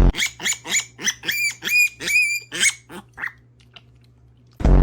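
An animal giving a quick series of about ten short, high-pitched calls, some held briefly on one pitch, over a low steady hum; a loud low buzz comes in near the end.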